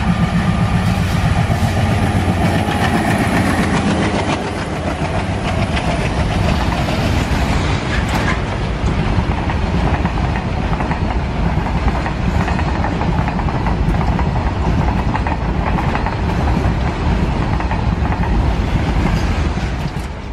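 A train running along its track with a steady clattering rumble. A droning engine note is heard over it for the first few seconds, then fades out.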